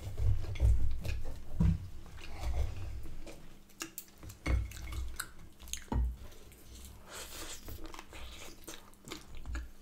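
Close-miked chewing and biting of a soft bread-roll sandwich filled with meat and gravy: irregular wet mouth sounds with a few sharp clicks.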